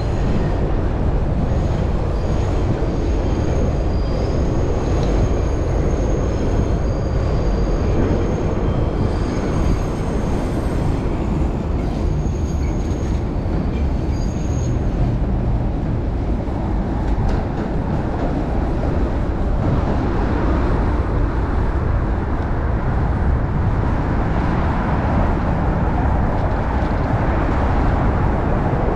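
Strong wind buffeting a chest-mounted microphone while cycling, a loud, steady rumble. Thin, high squealing tones come and go through the first half.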